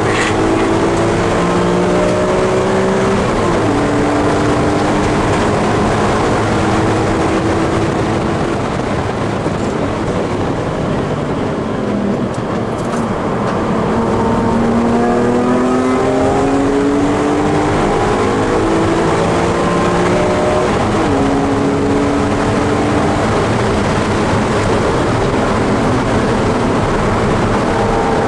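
BMW E46 M3's S54 straight-six under hard acceleration, heard from inside the cabin over steady road and wind noise. Its pitch climbs and drops at an upshift about three seconds in, falls away as the car slows around the middle, then climbs again to a second upshift, into fourth, about two-thirds of the way through.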